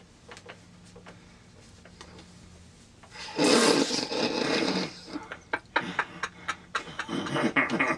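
Weird noises made with a person's voice: a loud rasping burst about halfway through, a few sharp clicks, then a fast fluttering rattle near the end.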